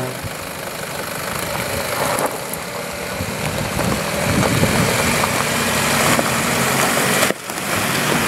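Nissan Patrol 4x4's engine running at low revs as it crawls down a steep dirt track. The sound breaks off briefly about seven seconds in, then picks up again.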